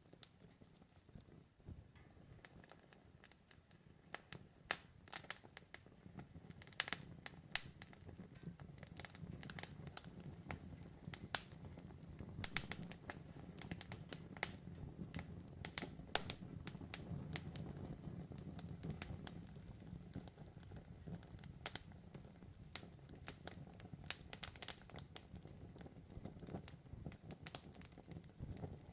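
Campfire crackling: irregular sharp pops and snaps over a low, steady rustle of burning wood that swells in the middle and eases off near the end.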